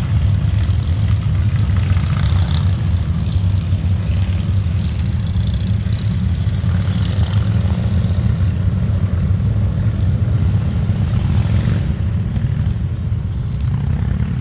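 Motorcycle engines running with a steady, deep rumble.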